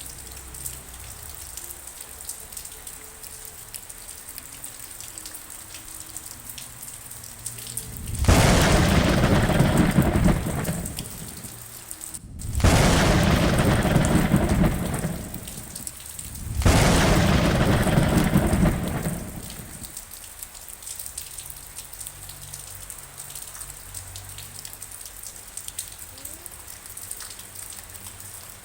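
Steady rain falling, broken in the middle by three loud rolls of thunder, each lasting two to three seconds.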